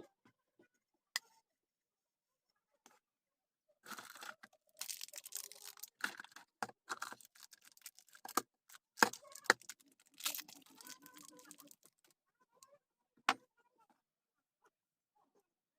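Hands working on ceiling fan parts with tools: irregular scraping and rattling with several sharp metallic clicks and knocks, busiest in the middle stretch.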